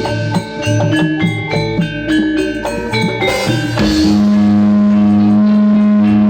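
Music played loud through a sound system under test: quick struck, mallet-like notes over drums, then one low note held steady from about four seconds in.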